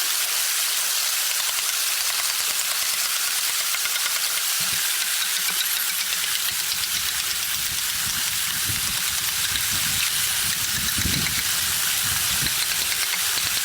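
Steady rain, an even fine-grained hiss, with irregular soft low thumps coming in about a third of the way through.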